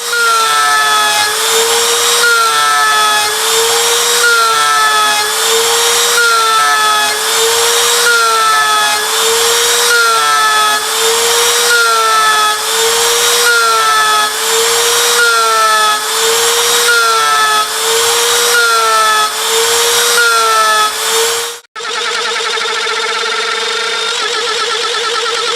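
CNC router spindle milling 6082 aluminium: a steady high-pitched cutting whine that wavers in a regular cycle about every second and a half as the cutter repeats its pass. The sound breaks off abruptly about three-quarters of the way through, then goes on steadier.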